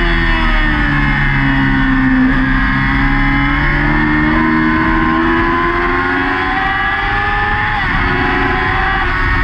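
Yamaha R6's inline-four engine running at high revs on track, heard from the bike's onboard camera over a steady wind rush. The engine pitch falls at first, climbs slowly for several seconds, then drops sharply once near the end and climbs again.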